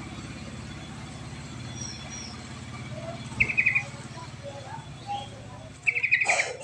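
Bird calls: a short, rapid chattering burst of five or six notes, heard twice about three seconds apart, with scattered softer notes between, over a low steady hum. The second burst comes with a brief noisy crackle.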